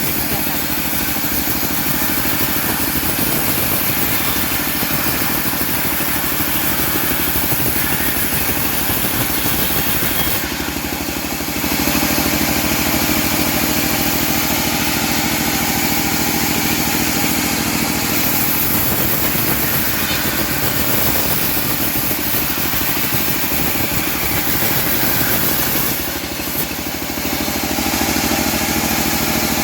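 Engine of a homemade bandsaw sawmill running steadily while sawing a teak log. The sound changes briefly about eleven seconds in and again near the end, settling into a slightly different steady tone after the first change.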